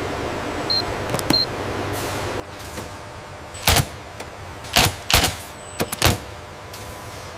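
Steady factory machine noise with two short high beeps. It cuts off suddenly, and a series of sharp mechanical clacks follows: four loud ones between about three and a half and six seconds in, with smaller ticks between.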